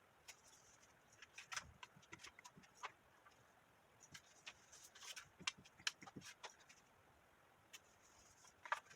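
Faint, scattered short clicks and taps, sparse around the first few seconds and in the middle, with near-quiet stretches between.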